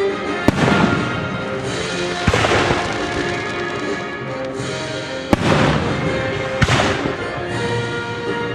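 Aerial fireworks bursting over orchestral music: four sharp bangs, about half a second in, about two seconds in, about five seconds in and near six and a half seconds, each trailing off in a long hiss.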